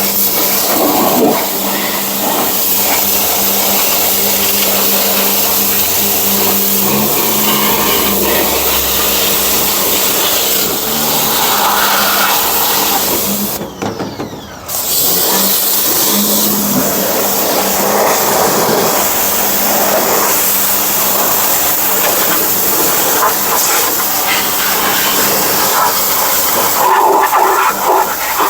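Small pressure washer spraying water in a loud, steady hiss, with its motor humming underneath. The spray stops for about a second halfway through, then resumes.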